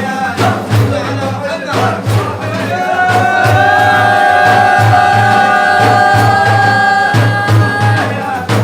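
Madih, religious praise singing: a voice holds one long note from about three seconds in to near the end, over a steady drum beat about twice a second.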